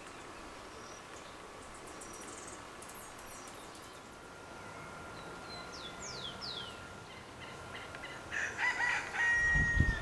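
A rooster crowing near the end, its call ending in a held note, after small birds chirping with quick falling notes. A low rumble comes in at the very end.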